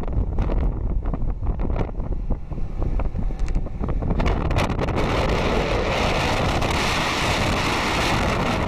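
Wind buffeting the microphone while riding a two-wheeler, over a constant low rumble with crackling gusts; from about five seconds in a steady rushing hiss grows louder.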